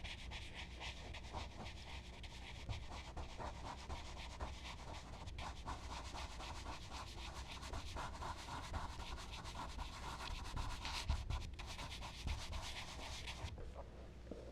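Charcoal rubbed and scraped across smooth Bristol paper in quick, dense back-and-forth strokes, stopping abruptly about a second before the end.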